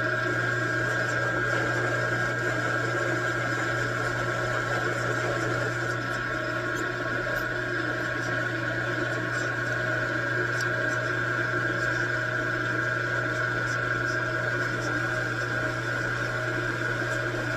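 Metal lathe running steadily, a constant low hum with a steady higher whine, while stud edges are chamfered.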